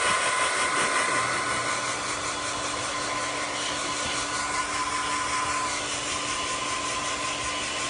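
Hair dryer running steadily, blowing air with a constant high whine.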